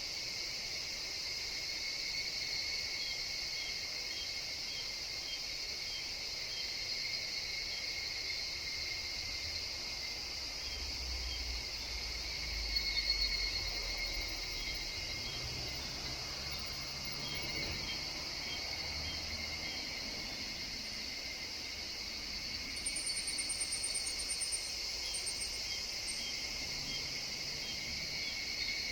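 Steady chorus of insects in a forest, with soft chirps repeating at an even pace. A brief high chirping comes about 23 seconds in, and a low rumble swells briefly near the middle.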